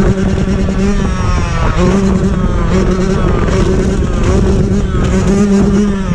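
Motorcycle engine running at a steady pitch, dropping out briefly a couple of times, under heavy wind noise on the microphone.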